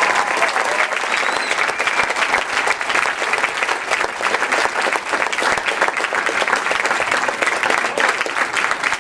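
Crowd in the stands applauding steadily, dense clapping from many hands, with a short whistle about two seconds in.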